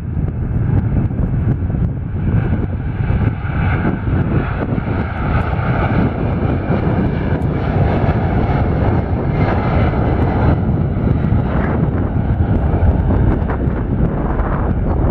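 Jet airliner engines running as a plane passes: a steady rumble with a whining band that strengthens about two seconds in and falls away after about ten seconds.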